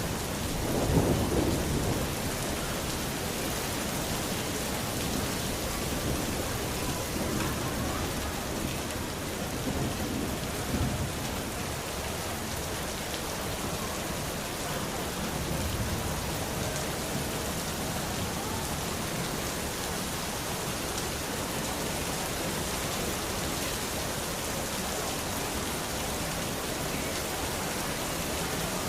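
Steady rain hissing, with a rumble of thunder about a second in and fainter low rumbles later on.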